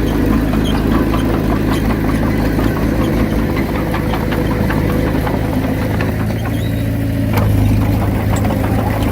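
Komatsu D31P bulldozer's diesel engine running steadily, its low rumble growing stronger about seven seconds in.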